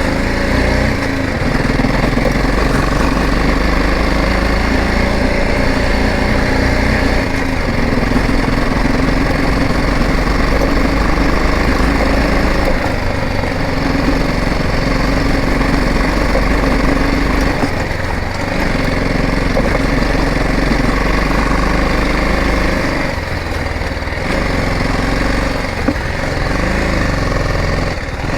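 BMW motorcycle engine running as the bike is ridden, a steady engine drone that eases off briefly about two-thirds of the way through.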